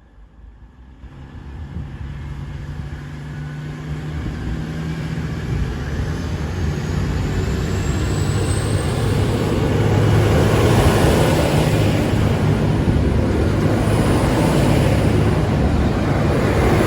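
Diesel train approaching, its engine and wheel noise growing steadily louder over about ten seconds, then running loud and steady as it comes close.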